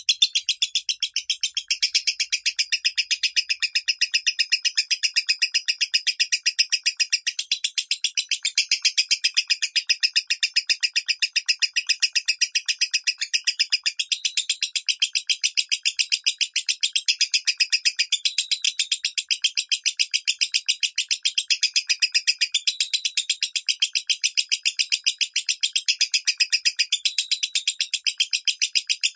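Lovebird singing its 'minor' voice: a fast, unbroken run of short, high chirps repeated several times a second, holding steadily.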